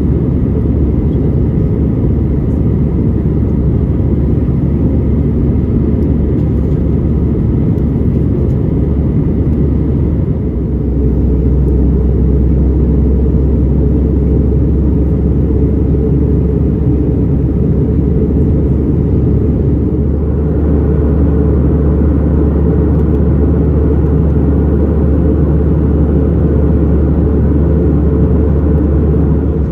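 Steady in-flight cabin noise of an Airbus A320: a deep engine drone and airflow rush. The low rumble deepens slightly about ten seconds in, and more hiss comes in about twenty seconds in.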